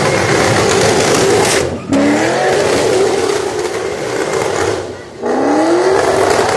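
Loud car burnout: an engine held near redline with the rear tyres spinning and squealing. The revs drop briefly twice, about two and five seconds in, and climb again each time.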